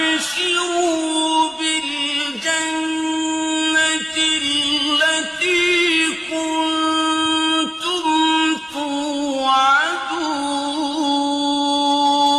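A solo voice singing long, held notes with wavering ornaments and short slides between pitches, in a chant-like style without clear words.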